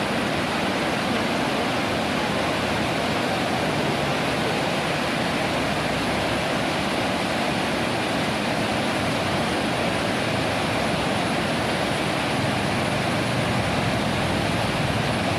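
Waterfall's water rushing and splashing: a steady, even noise that holds without change.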